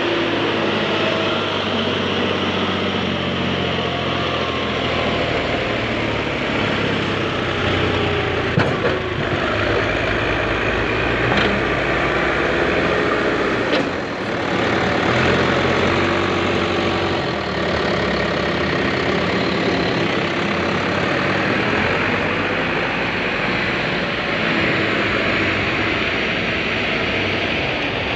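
Mahindra Yuvo Tech Plus 405 tractor's 39 HP diesel engine running steadily, with a few brief knocks midway.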